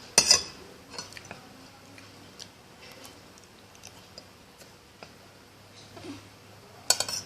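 Cutlery clinking on a plate at the start, then chewing with scattered small clicks, and another clatter of cutlery on the plate near the end.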